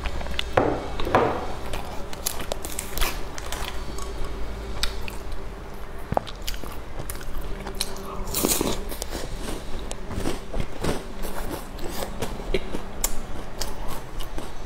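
Close-up biting and chewing of a chocolate-coated snack bar: crisp crunches and wet mouth clicks that come irregularly throughout, with a louder crunch about eight seconds in.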